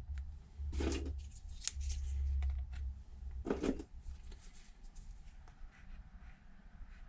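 Small clamps being handled and clipped onto the edge of an iPad to press a freshly glued screen, with scattered clicks and two short scraping rustles, about a second in and again past three seconds, over a low rumble of handling.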